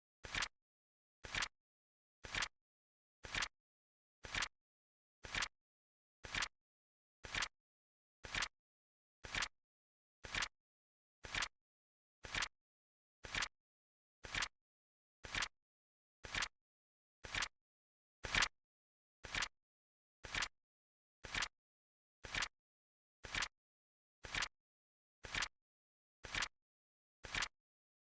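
Flip clock timer sound effect: a short, sharp click of the flipping digit once every second, evenly paced. One click about two-thirds of the way through is a little louder.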